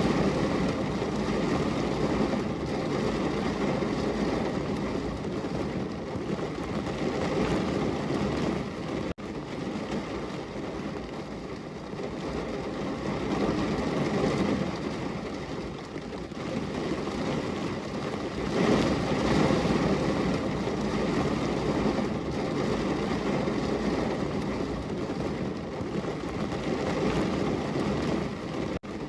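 Heavy rain pouring on a window: a dense, even hiss that swells and eases every few seconds, with a brief drop-out about nine seconds in.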